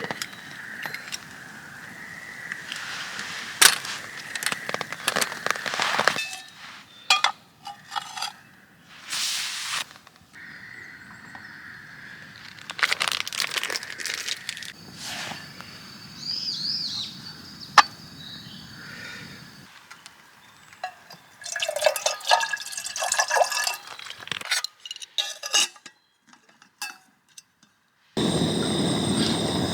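Camp tableware clinking and knocking, with some liquid pouring, heard across several short edited segments.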